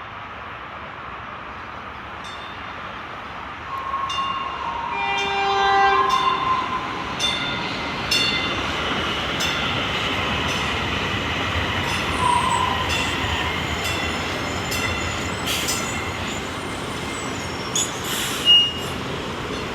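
DART light rail train pulling in: the horn sounds about four to six seconds in, then the wheels squeal on the rails and click over the rail joints as the train rolls along.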